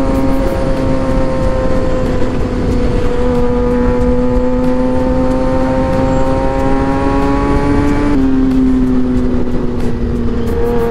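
Motorcycle engine pulling steadily at cruising speed under wind noise, its pitch slowly rising, then dropping sharply about eight seconds in as the rider shifts up a gear.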